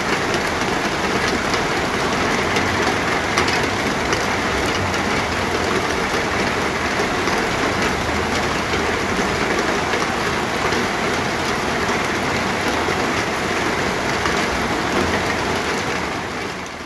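Steady heavy rain falling on a surface, a dense hiss scattered with individual drop ticks, fading out near the end.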